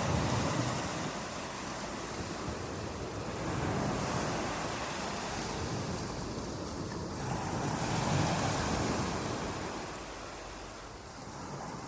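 Continuous rushing water that swells and ebbs in slow surges, about every four seconds, like waves washing in.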